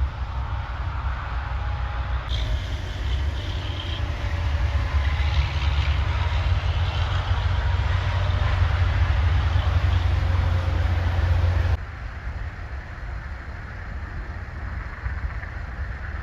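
Heavy trucks labouring uphill, a loud steady low rumble of engines and road noise. The sound changes abruptly about two seconds in and drops suddenly in level about three quarters of the way through.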